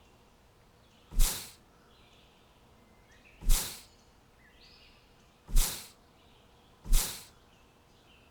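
Four short, loud whooshing hisses, each starting sharply and fading quickly, spaced irregularly a second or two apart, with faint bird chirps between them.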